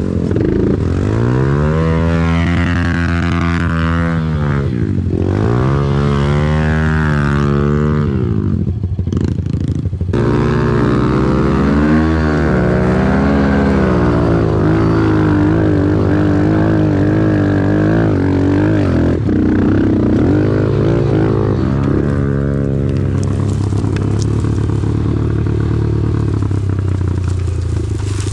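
Off-road vehicle engine running under load, its pitch rising and falling with the throttle several times, then holding steadier and settling lower near the end.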